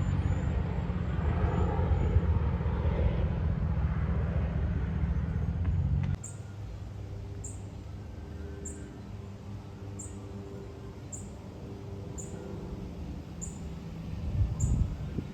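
Loud, low engine rumble that cuts off abruptly about six seconds in. Then quieter outdoor background with a short, high chirp repeating about every 0.6 seconds.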